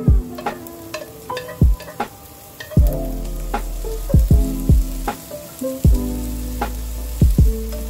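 Diced onion and bell peppers frying with a light sizzle in a nonstick pan while a spatula stirs them, under background music with a steady drum beat, bass and plucked notes.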